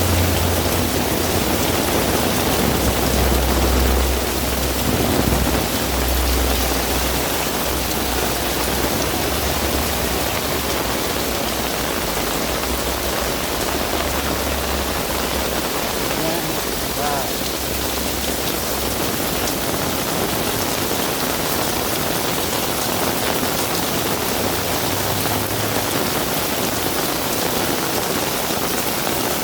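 Heavy rain falling steadily, with a low rumble underneath for about the first half.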